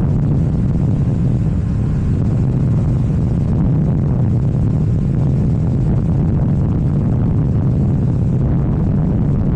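KTM 790 Duke's parallel-twin engine and Akrapovič exhaust running steadily at a constant engine speed while riding, with no revving or gear changes.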